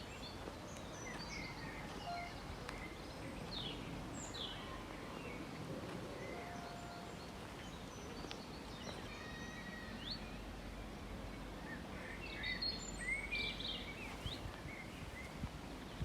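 Several small birds chirping and singing in short, separate calls over a steady background of low outdoor noise, with a quick run of repeated notes about nine seconds in and busier chirping near the end.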